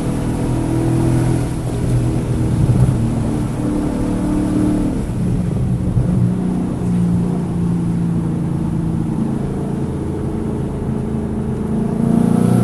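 Car engine running hard on a race track, its note climbing and dropping with the revs and holding steady for a few seconds in the middle. The engine is misfiring on cylinders 1, 3 and 4.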